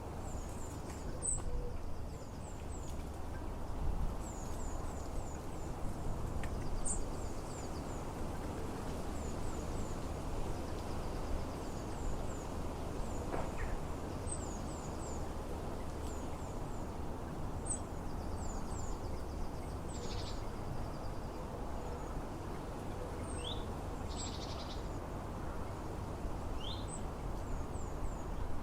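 European goldfinches twittering: short, very high chirps in small clusters of three or four, repeated all through, with a few rising notes near the end, over a steady low background rumble.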